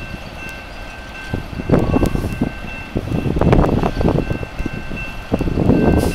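A freight train rolling past, with a steady high-pitched ringing tone running over it. Gusts of wind buffet the microphone and swell and fade.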